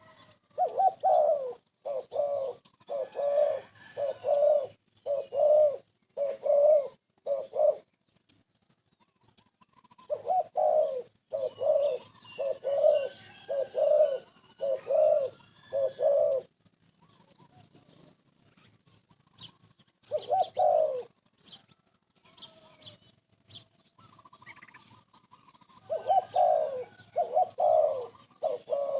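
Spotted dove cooing: bouts of six to eight low, repeated coos, with pauses of a few seconds between bouts.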